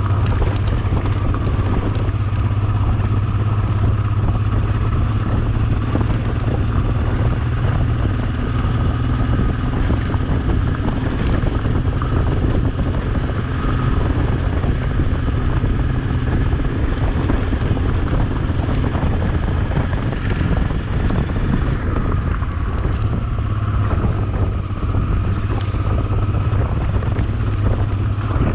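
Honda XL650V Transalp's V-twin engine running steadily under way, with wind rushing over the microphone. The engine note eases slightly a little past two-thirds of the way through, then picks up again.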